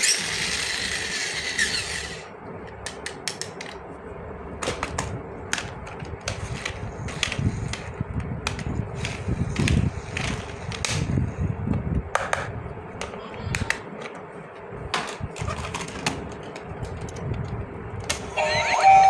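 Small plastic toy pieces being handled and set down, making irregular sharp clicks and taps, with a rustling hiss for the first couple of seconds. Music with singing starts near the end.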